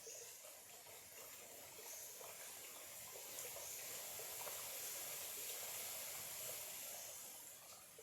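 Small clear stream trickling faintly, with small scattered plinks over a steady hiss that swells in the middle and eases off near the end.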